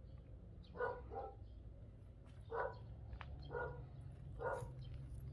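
A dog barking repeatedly, five short barks spread about a second apart, over a steady low rumble.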